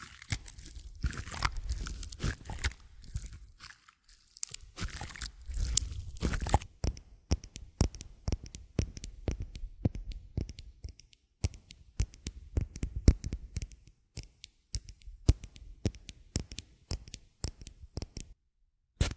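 Close-miked ASMR trigger sounds: dense crunching and crackling for about the first six seconds, then a long run of separate sharp clicks and taps.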